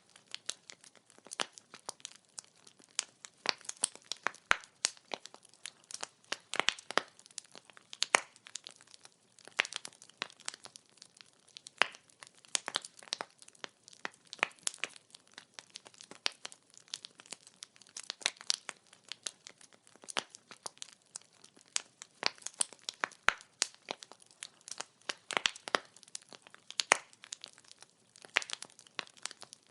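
Wood fire burning and crackling: irregular sharp pops and snaps from the burning logs, several a second, over a faint hiss.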